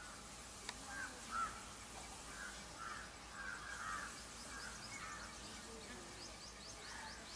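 Outdoor birdsong: a run of short crow-like caws repeated about every half second, then a quick series of short rising chirps near the end. A single sharp click sounds near the start.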